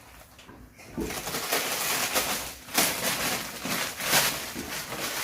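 Plastic packets of frozen food rustling and crinkling as they are handled and rummaged through in a freezer compartment, starting about a second in.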